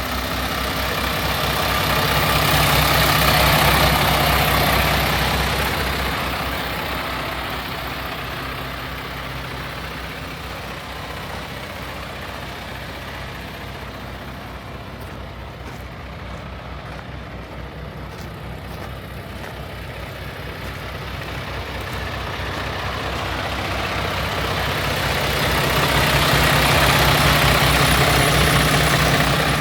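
Paccar MX-11 inline-six diesel engine of a 2021 Peterbilt 579 idling steadily, louder near the start and again near the end.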